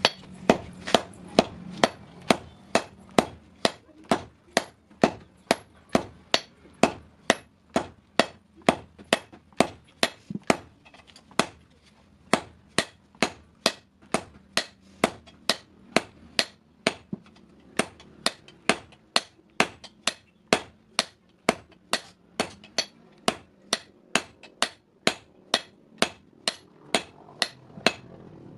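Hand hammer striking steel on an anvil in a steady rhythm of about two blows a second, each blow ringing briefly, as a hasua blade is forged. The hammering pauses for a moment partway through.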